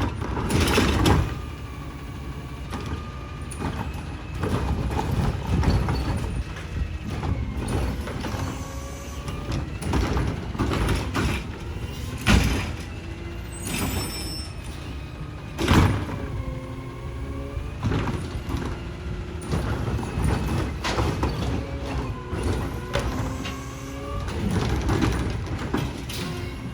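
Automated side-loader garbage truck at work: the diesel engine revs up and down with a rising and falling hydraulic whine as the lifting arm cycles, and several loud bangs from the arm and carts.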